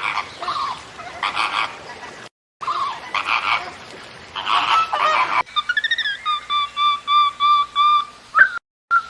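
Geese honking: harsh, repeated calls in two runs with a short break between them. About five and a half seconds in, a sudden cut brings a quick series of short, high whistled notes.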